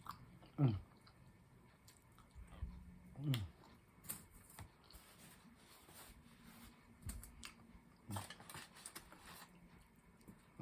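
Close-up eating sounds of a person chewing, with scattered small mouth clicks and smacks and two brief sounds that fall in pitch, about half a second in and about three seconds in.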